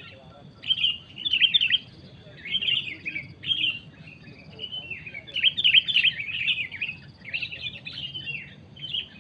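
Sooty-headed bulbuls (kutilang) chattering: repeated bursts of rapid, scratchy calls, loudest about a second and a half in and again around the middle.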